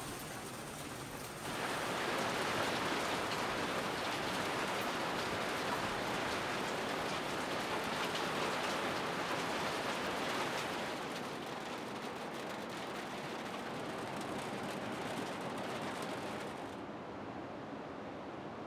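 Heavy rain falling as a steady hiss, growing louder about a second and a half in and easing somewhat near the middle.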